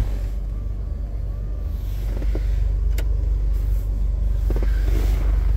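2006 Jeep Wrangler Rubicon's 4.0-litre straight-six idling steadily, heard from inside the cab shortly after a cold start. A single sharp click comes about three seconds in.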